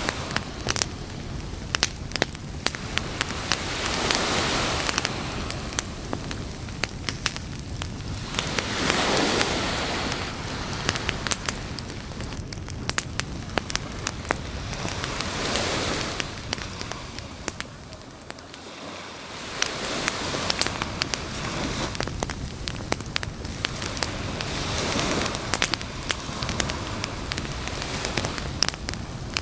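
Campfire crackling with many sharp pops, over the wash of waves on the shore that swells and fades every five or six seconds.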